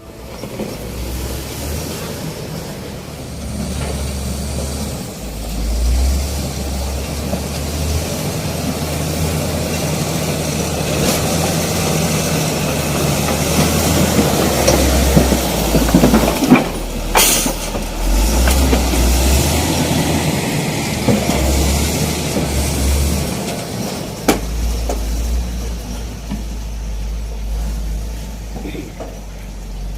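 Diesel engines of heavy road-construction machinery, a motor grader and a road compactor, running with a deep rumble that rises and falls as they work. A short sharp knock stands out about seventeen seconds in.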